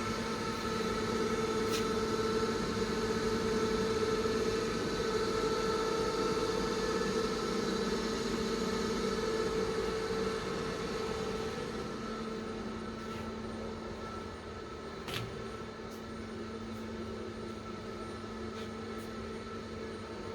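Safan servo-electric CNC press brake humming steadily while powered, its tone dropping somewhat about two thirds of the way through, with a single short click near the end.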